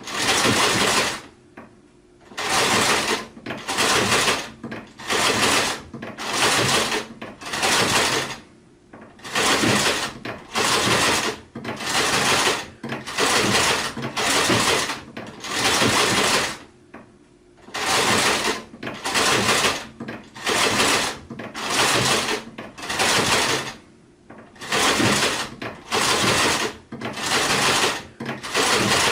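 Sewing machine stitching in short runs of about a second each, stopping and starting again over and over, with a few longer pauses between runs.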